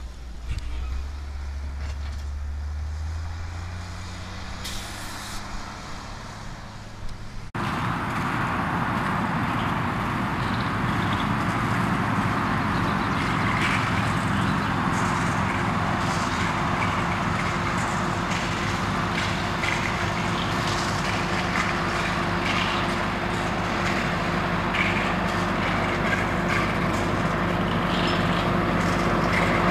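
A heavy engine running low and steady. After an abrupt cut about seven and a half seconds in, louder machinery runs with a steady hum and scattered clattering.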